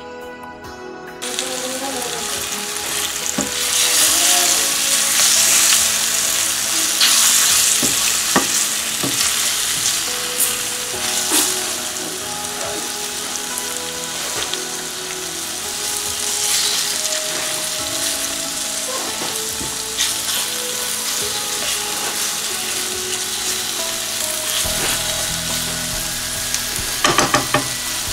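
Floured chicken breast pieces sizzling in hot oil in a frying pan, the sizzle rising about a second in, with a spatula knocking and scraping against the pan as the pieces are stirred and turned, several quick knocks near the end.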